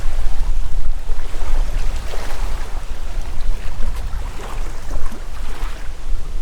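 Gusty wind buffeting the microphone with a heavy, uneven low rumble, over a rushing hiss of wind that swells and fades every second or two.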